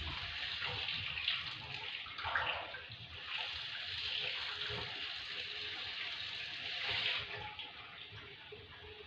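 Fritters of idli batter sizzling in hot oil in a deep-frying pan, a steady hiss that eases off a little after seven seconds in.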